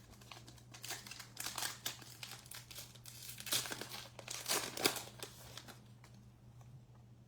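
Crinkling and tearing of a baseball trading card pack's wrapper as it is ripped open, in irregular bursts from about a second in until shortly past the middle, loudest toward the middle.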